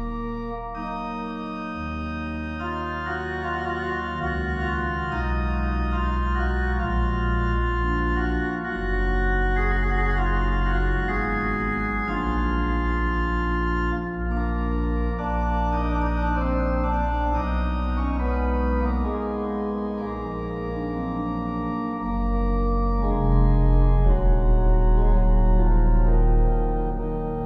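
Slow organ music: long held chords over deep bass notes, the harmony changing every few seconds.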